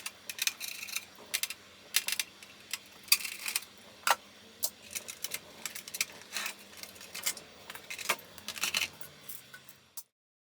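Irregular small clicks, taps and light clatter of hard parts being handled during work on a desktop computer, over a faint steady hum; the sound cuts off abruptly near the end.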